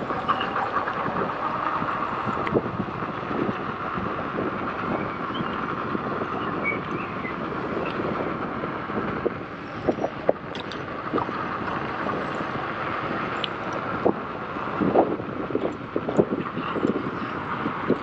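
Electric unicycle riding over a rough trail: wind on the microphone and tyre noise over uneven ground, with scattered knocks and jolts, most of them in the second half.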